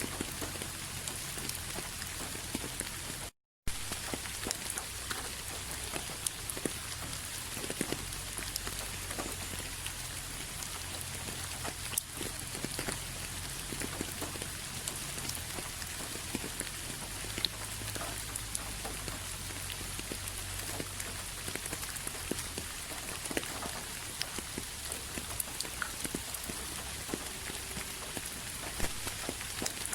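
Steady rain falling, with many individual drops tapping on a surface. It cuts out for a split second a little over three seconds in.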